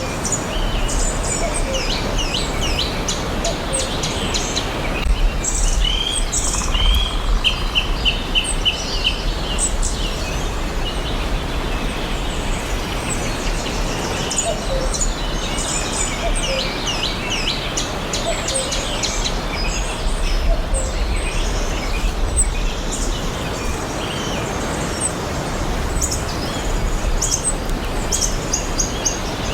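Several songbirds chirping and singing over a steady background hiss, with a quick run of about eight repeated notes about a quarter of the way in.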